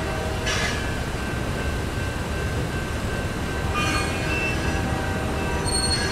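Freight cars of a CSX quarry train rolling slowly while being shoved, a steady low rumble with thin high wheel squeals. Brief louder bursts come about half a second in and again about four seconds in.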